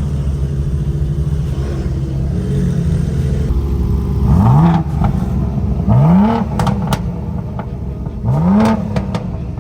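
Performance car engine idling, then pulling away hard: its pitch climbs in three quick pulls about a second and a half apart, with a few short sharp cracks between them.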